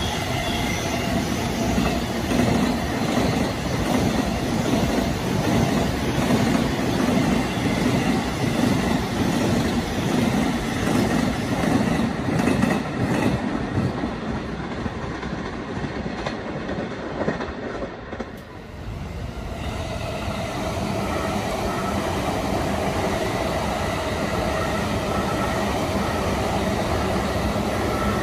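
Electric commuter trains running past on the rails, with wheels clattering and a steady rumble. The sound dips briefly about two-thirds through, then a second train comes on with a steadier hum and a faint held whine.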